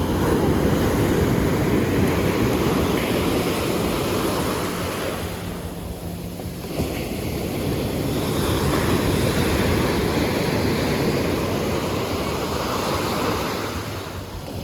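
Sea waves breaking and washing up a beach, in two long swells, with wind rumbling on the microphone.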